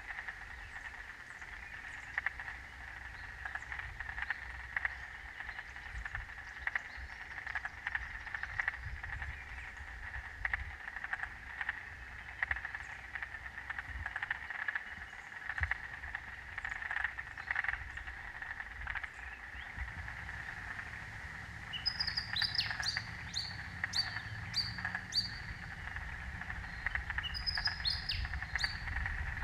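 Dense wetland frog chorus: many frogs calling together in a steady, clicking band. About two-thirds of the way in, a bird joins with a string of short, sharp, high calls.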